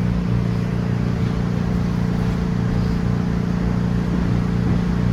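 MBTA Red Line subway car running between stations, heard from inside: a steady hum with a constant low tone over the rumble of the wheels.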